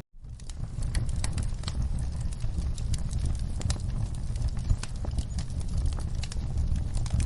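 Wood fire crackling, with irregular sharp pops and snaps over a steady low rumble of the flames. The sound drops out for a split second at the very start, then resumes.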